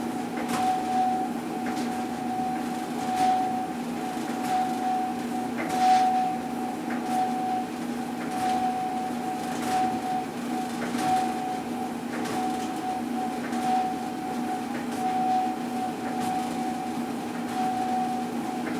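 Whirlpool clothes dryer running with a pulsing 'woo, woo, woo' noise, a steady whine that swells about every two-thirds of a second over a low hum, with a faint tick repeating a little more than once a second. The owner guesses it is a bad bearing in one of the idler wheels that support the drum.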